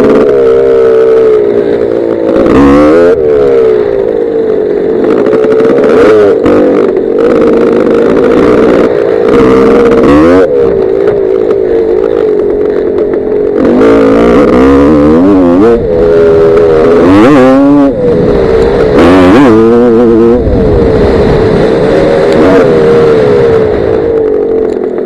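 Gas Gas 250 dirt bike engine revving up and down through the gears over and over as it rides a rough trail, heard from a helmet-mounted camera, with occasional thumps from the bumps.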